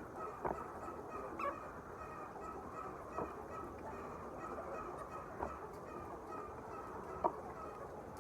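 A large flock of poultry calling all at once in a steady din, with a few louder single squawks standing out above it.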